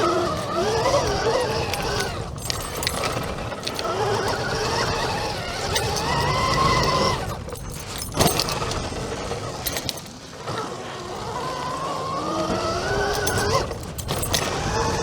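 Electric dirt bike motors whining, the pitch rising and falling with the throttle in several long sweeps, over tyre and wind noise. A sharp knock about eight seconds in.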